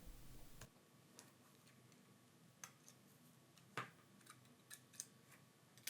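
Faint, scattered small clicks from ejecting a smartphone's SIM card tray with an ejector pin, the clearest about four seconds in.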